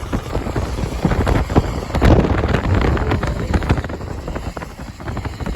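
Loud rumbling storm noise, wind on the microphone or thunder, swelling to its loudest about two seconds in and easing off about a second and a half later.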